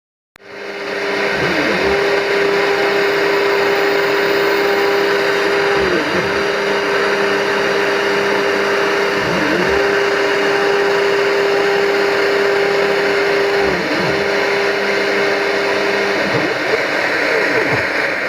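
Machine tool running, with a dense steady hiss over a motor tone that drops sharply and climbs back four times, about every four seconds. It starts abruptly, and the tone breaks up near the end.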